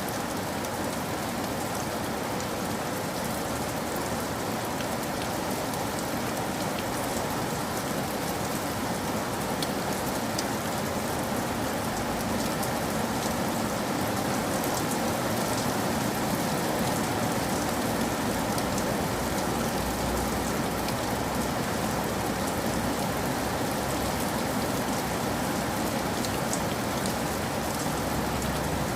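Steady rain falling, an even hiss with scattered drop ticks and a faint low rumble that swells a little partway through.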